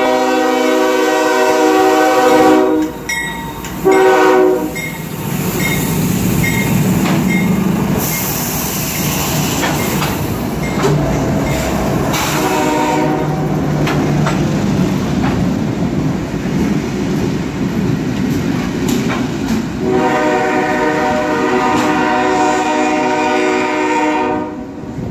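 A CSX freight train passing at close range: diesel locomotives and freight cars rolling by with the steady noise of engines and wheels. The locomotive's multi-tone air horn sounds four times: a long blast at the start, a short one about four seconds in, another short one about halfway, and a long blast in the last five seconds.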